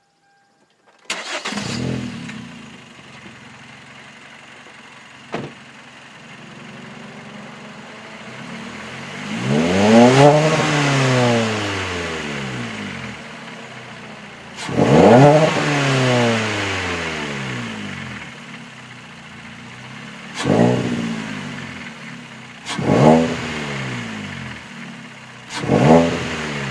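Kia Forte's 2.4-litre four-cylinder engine starting about a second in and settling to idle, then revved five times: two long revs that climb and fall back, followed by three quick blips of the throttle. A single sharp click about five seconds in.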